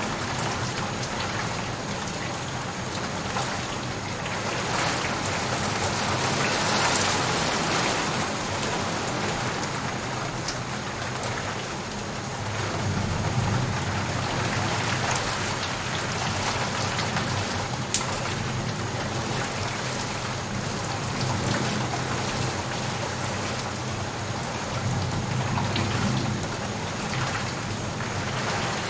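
Steady rain falling and pattering, with a low rumble swelling up a few times and one sharp drip tick about two-thirds of the way in.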